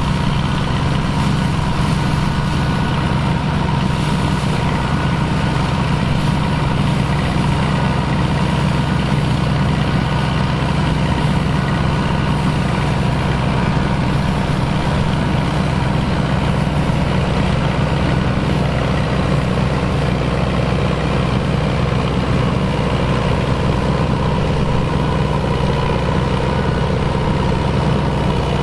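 Engine of vintage farm machinery running at a steady speed, with an even drone and no change in pitch.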